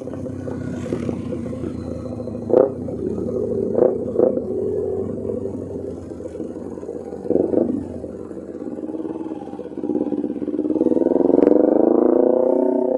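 Kawasaki Ninja 250R parallel-twin engine through a loud Austin Racing aftermarket exhaust, running under way with several short, loud bursts in the first half, easing off in the middle, then revving up with rising pitch near the end as it accelerates.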